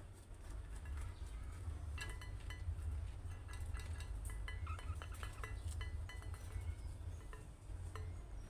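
Budgerigars chattering: short, scattered chirps and clicks over a steady low hum.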